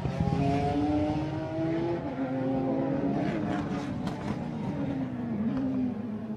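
A racing car's engine running at speed, its pitch rising and falling several times as it revs.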